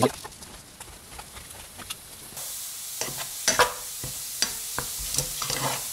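Minced mushroom, onion and garlic frying in a nonstick pan: a steady sizzle, with a plastic spatula scraping and stirring through it in repeated strokes, starting about two and a half seconds in. Before that, a single knife knock on a plastic cutting board at the very start.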